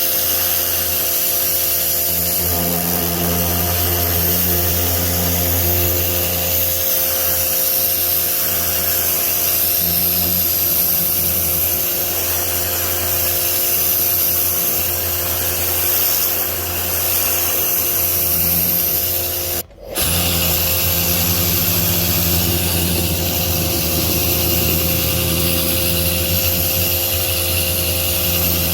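Pressure washer running steadily, a motor hum under the hiss of the water jet spraying. The sound cuts out for an instant about twenty seconds in, then resumes unchanged.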